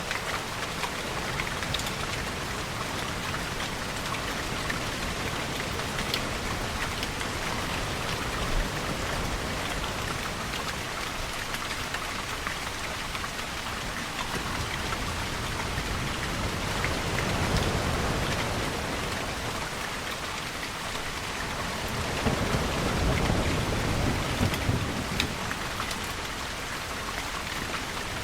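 Steady rain falling, a dense even hiss, with deep low rumbles swelling up twice, about halfway through and again near the end.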